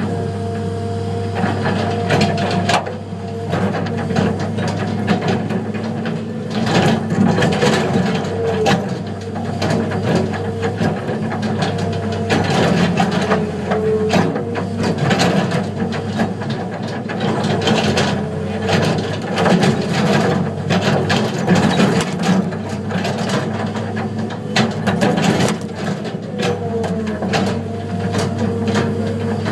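Cat 325 excavator and Terex TS14 scraper diesel engines running steadily while the excavator loads sandstone, with repeated clanks, knocks and scraping of rock against the bucket.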